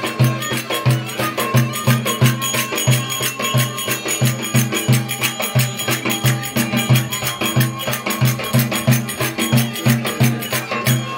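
Traditional Turkish folk dance music with a steady drum beat, about three beats a second, under a busy melody.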